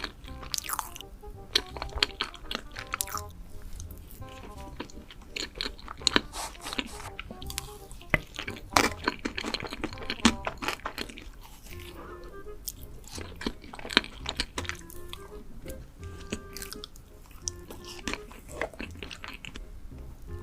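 A person chewing and biting into crunchy food, with many sharp crunches, over background music with short held notes.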